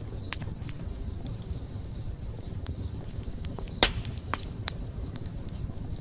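Wood campfire crackling, with scattered sharp pops over a low steady rush of flames; the loudest pop comes about four seconds in.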